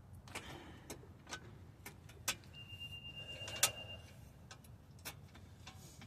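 Scattered sharp clicks and taps of hand tools and metal parts being handled, irregular and about one or two a second. The loudest comes about three and a half seconds in, with a brief high steady ringing tone over it.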